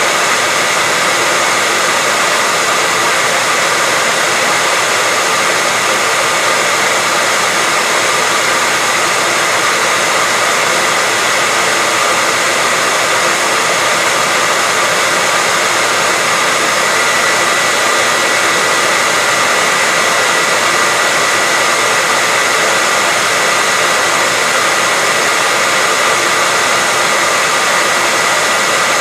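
Hair dryer running steadily: an even, unbroken rushing of air with a faint steady whine from the motor and fan.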